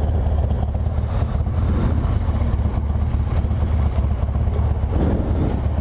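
BMW R1200GS Adventure's boxer-twin engine running, a steady low rumble with road noise, heard through the rider's helmet mic.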